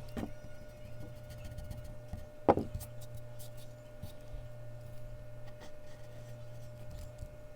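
Mechanical pencil drawing on Bristol paper, faint scratching strokes over a steady low hum, with one sharp knock about two and a half seconds in.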